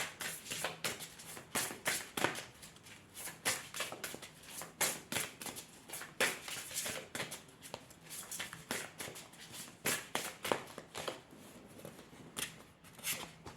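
Deck of oracle cards being shuffled by hand: a quick, irregular run of soft card clicks and slaps.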